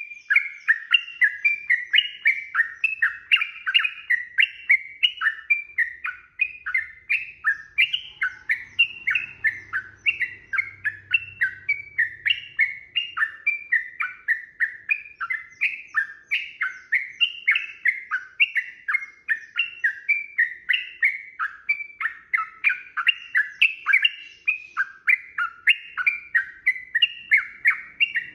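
Yellow-vented bulbul (trucukan) singing a long, unbroken run of quick bubbly whistled phrases, about three notes a second.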